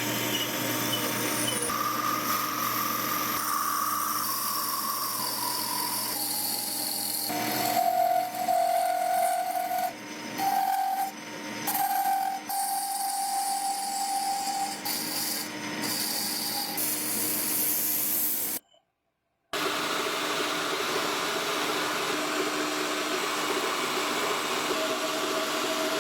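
Workshop tool noise in short cut-together clips: a motor running with a steady whine whose pitch shifts from clip to clip, under rubbing and filing sounds.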